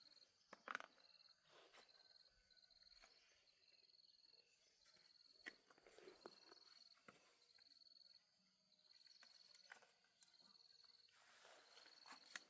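Near silence with a faint, high cricket trill repeating in pulses about a second long, and a few scattered faint taps.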